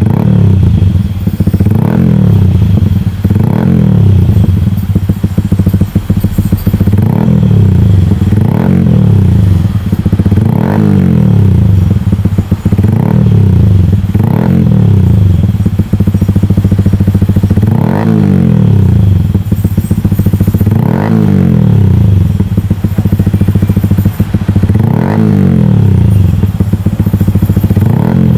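Motorcycle engine fitted with an SC-Project aftermarket exhaust, revved over and over at a standstill: each throttle blip rises sharply and falls back to idle, one every one to two seconds.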